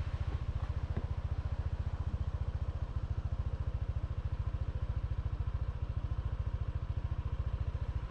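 Honda PCX scooter's single-cylinder engine idling, a steady, fast, even low pulsing that cuts off suddenly at the end.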